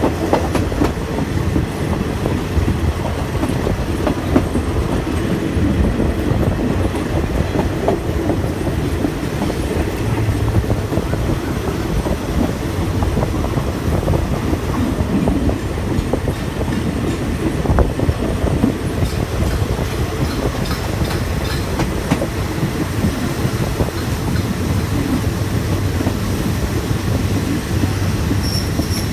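Passenger train running along the track, its wheels clacking over the rail joints above a steady rumble.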